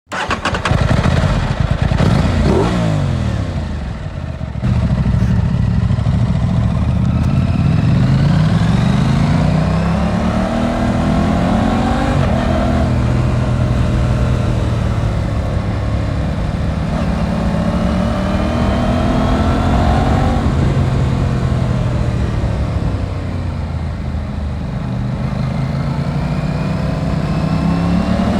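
Aprilia RS 660's 659 cc parallel-twin engine pulling through the gears under acceleration. Its pitch dips early on, then climbs and drops back at each upshift, about every four to eight seconds.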